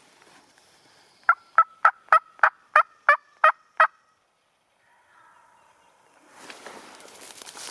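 A run of nine loud, evenly spaced turkey yelps, about three or four notes a second. A rustling, shuffling noise starts near the end.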